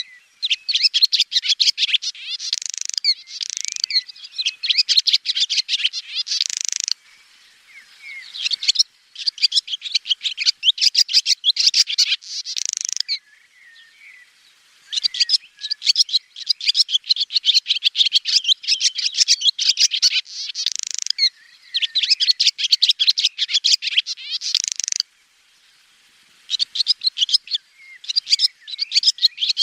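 Swallow twittering: fast runs of high, chattering notes in phrases a few seconds long, broken by short pauses.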